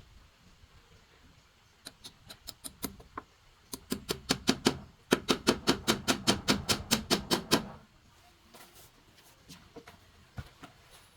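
A run of sharp, even knocks from a hand tool striking. They come about two to three a second at first, then a louder, faster run of about four to five a second for some four seconds, stopping abruptly near the end.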